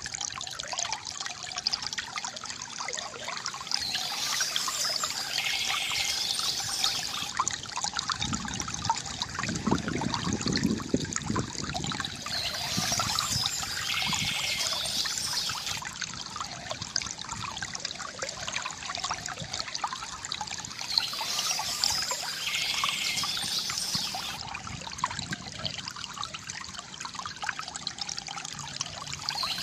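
Small stream trickling and splashing steadily over stones, with a brighter, hissier stretch of water sound that comes back about every eight seconds.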